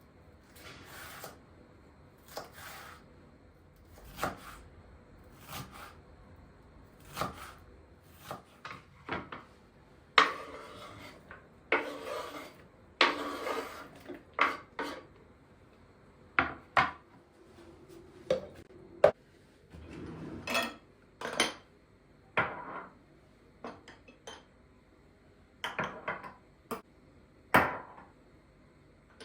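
Kitchen work: dishes and utensils clinking and knocking at irregular intervals, with stretches of scraping and rubbing.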